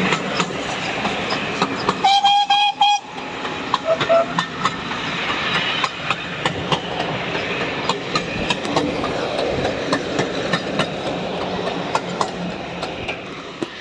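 Steam train passing close by, its wheels clicking over the rail joints amid a steady rush of running noise. About two seconds in there is a short whistle blast lasting about a second.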